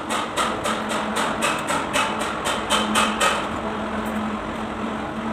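A quick run of about a dozen sharp knocks, roughly four a second, that stops a little past three seconds in, over a steady low hum.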